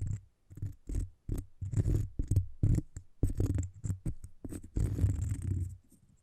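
Tapping and scratching on cork in short, irregular strokes, with a longer scratch about five seconds in.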